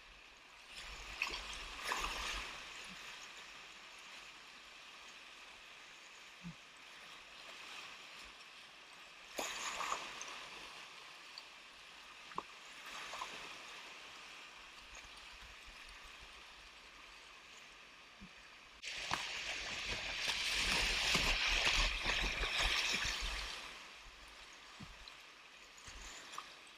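Whitewater rushing and splashing around a kayak, with a few brief louder splashes and a loud stretch of churning water lasting about four seconds, starting about nineteen seconds in.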